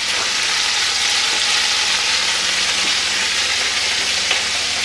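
Sliced potatoes and sausage frying in olive oil in a cast iron skillet: a steady sizzle.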